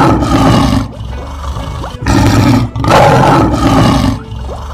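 Lion roar sound effect, repeated: one roar ends about a second in, then two more follow back to back about two seconds in, over faint background music.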